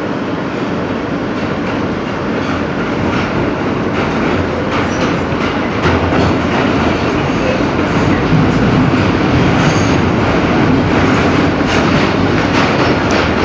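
Inside an R160B subway car running at speed: a steady rumble of wheels on rail, with the clickety-clack of wheels over rail joints, growing a little louder about halfway through.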